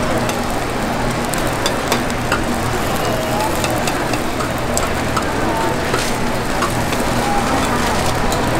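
Okonomiyaki with bacon and cabbage sizzling on a hot griddle: a steady frying hiss with scattered small pops and clicks, over a low steady hum.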